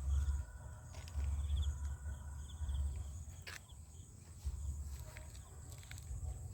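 Insects chirping outdoors in short repeated trills, over an uneven low rumble that comes and goes, with a few faint clicks.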